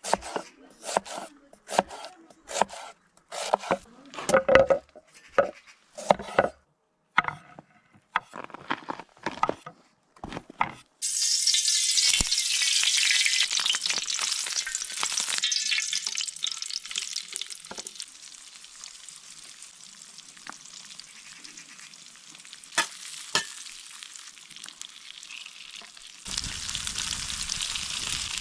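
Sucuk (Turkish sausage) frying in a pan: after about ten seconds of quick knocks and taps, a loud sizzle starts suddenly as the food hits the hot pan, eases to a steady quieter frying sizzle, and grows louder again near the end.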